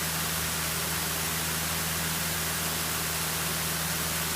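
Cessna 152's four-cylinder Lycoming engine running steadily in cruise flight, a constant drone under a broad hiss of airflow and cabin noise.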